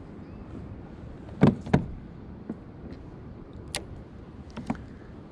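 Gear being handled on a plastic fishing kayak: two sharp knocks close together about a second and a half in, then a few lighter clicks, over a steady low background hiss.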